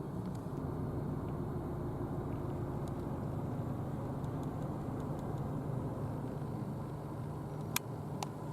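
Steady engine and road noise of a car driving slowly, heard from inside the cabin, with a single faint click near the end.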